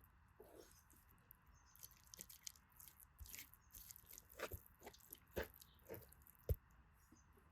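Wood campfire crackling: irregular small snaps and pops, with a few sharper, louder pops in the second half.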